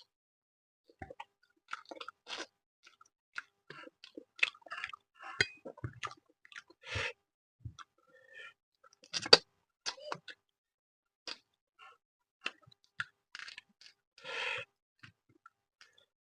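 Close-up chewing and mouth sounds of a person eating fish with rice: irregular wet smacks and clicks. A few longer, louder smacking sounds come about seven seconds in and near the end.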